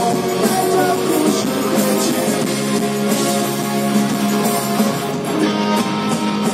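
Rock band playing live, an instrumental passage of guitars and drums with no singing.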